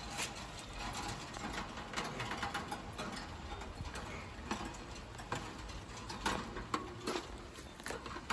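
Irregular light clicks and taps as the parts of a birdcage are handled and fitted.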